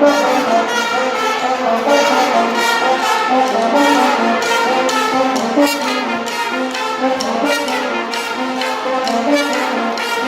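Guggenmusik band playing loud brass music: trumpets and trombones on held notes over a steady drumbeat.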